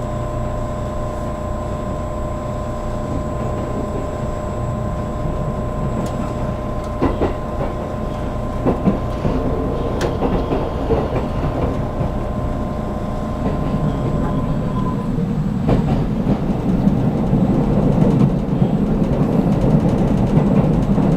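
A 783-series electric train heard from inside the passenger car as it runs along the track: a steady rolling rumble with a few sharp clicks over rail joints. The steady tones stop about three-quarters of the way through, and the rumble and rattle then grow louder as the train runs toward its stop at the terminus.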